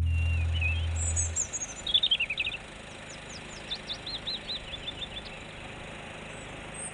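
Small songbirds singing: a string of short, high chirps and quick trills, some notes sliding downward.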